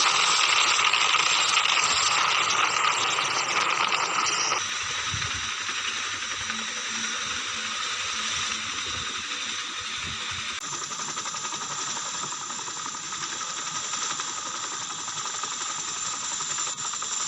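Large military helicopter's turbine engines and rotors running: a steady rushing hiss with a faint high whine, changing abruptly twice as the footage cuts between clips.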